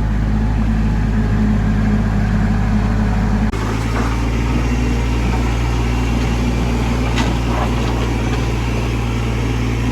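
Tractor engine running steadily while it clears dirt, its note shifting about three and a half seconds in, with a few faint knocks or scrapes after.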